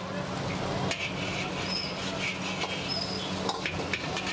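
Chicken pieces frying in shallow oil in a kadai: a steady sizzle over a low hum. Near the end, a metal ladle scrapes and stirs the pan.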